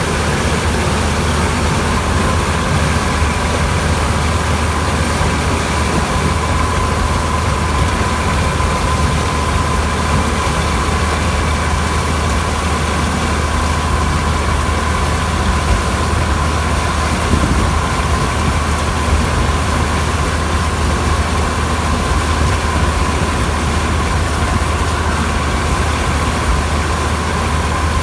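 Preet 987 combine harvester's engine and machinery running steadily, with a heavy low drone and a constant high whine.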